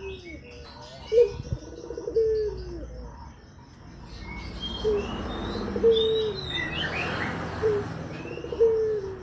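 Puter doves (Barbary or ringneck doves, the long-cooing pelung type) cooing over and over. Each coo is a short note followed by a longer drawn-out note that falls at the end, about five times. Smaller birds chirp faintly and high above the cooing.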